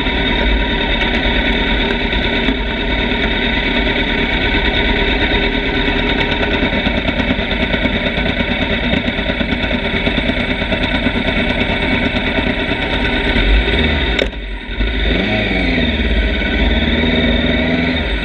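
Motorcycle engine running under way with heavy wind rumble on the microphone. About fourteen seconds in, the sound dips briefly, then the engine note sweeps back up, as in a gear change.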